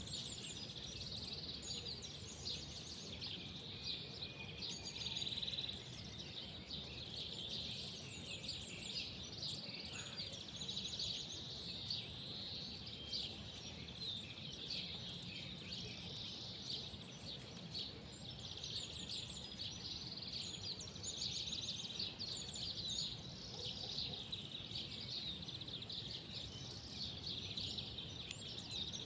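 Several small birds chirping and twittering together without pause, over a steady low background rumble.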